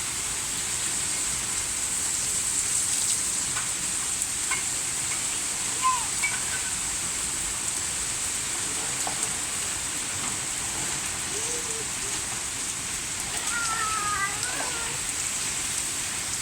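Steady rain falling, an even hiss, with faint voices calling briefly a couple of times.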